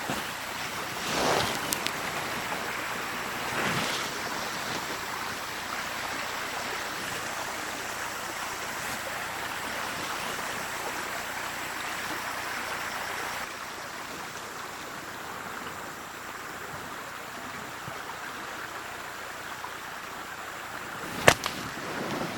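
Steady rush of stream water, with a couple of brief swishes near the start and one sharp snap near the end.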